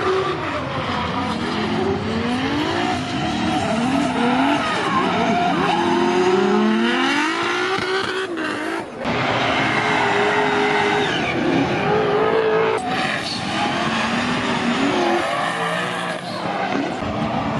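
Drift cars at full throttle, engines revving up and down over the hiss and squeal of sliding tyres. The sound breaks off abruptly twice, about eight and thirteen seconds in, where one clip cuts to the next.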